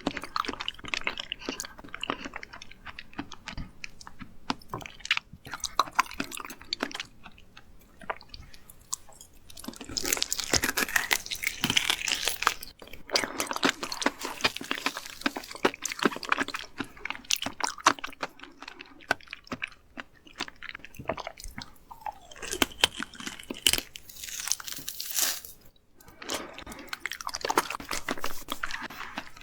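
Chewing of raw seafood, with crisp crunching in repeated bursts of sharp crackles between quieter stretches of chewing.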